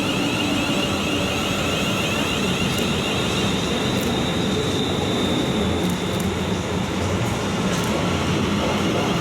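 Passenger train running through the station: a steady rumble with a thin high whine in the middle.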